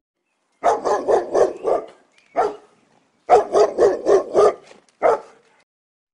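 Pomeranian barking in two quick runs of about five barks, each run followed by one more bark a moment later.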